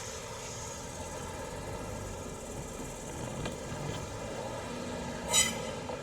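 Electric train moving slowly through the depot with a steady running drone, and one short, sharp, high-pitched squeal or hiss near the end.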